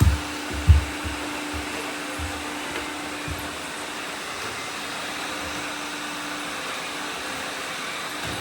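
Several robot vacuums running at once, a steady whirring hiss with a faint hum, and a few dull low thumps in the first few seconds, the loudest just under a second in.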